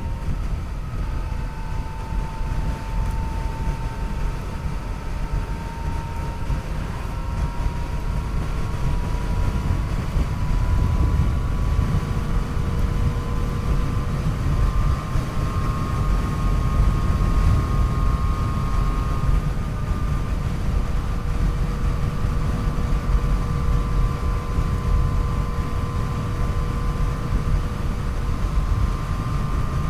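Yamaha FJ-09's 847 cc inline-three engine running at road speed under heavy wind rumble on the microphone. A thin whine near 1 kHz climbs slowly for about the first half, then holds steady as the bike cruises.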